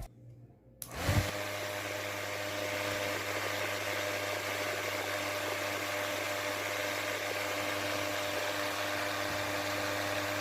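Homemade table fan with a small 4-volt DC motor, switched on about a second in and then running steadily: a motor hum with the rushing air of the blades.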